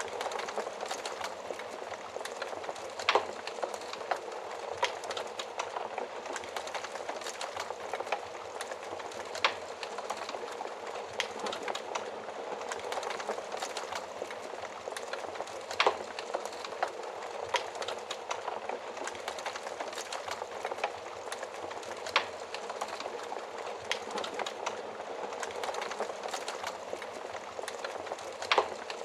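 Fire crackling in an oven fireplace: a steady hiss of burning with constant small pops, and a few louder snaps standing out, about three, sixteen and twenty-two seconds in and again near the end.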